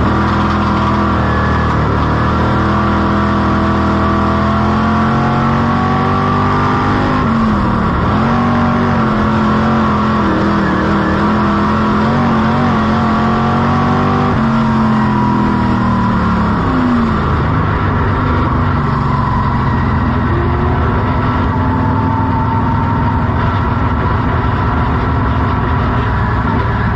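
Dirt-track modified race car engine running hard, its pitch holding high and then dropping and climbing back as the throttle comes off and goes back on, with the sharpest dips about a quarter of the way through and again past halfway.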